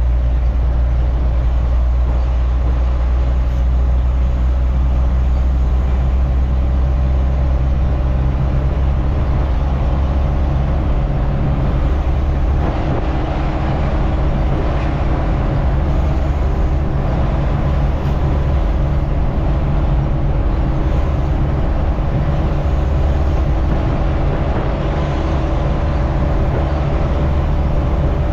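A truck's engine running steadily under way, a deep low drone mixed with road noise. The engine note shifts slightly about halfway through.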